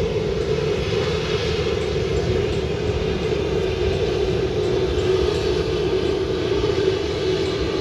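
Engine of a rice combine harvester running steadily under load, a continuous drone.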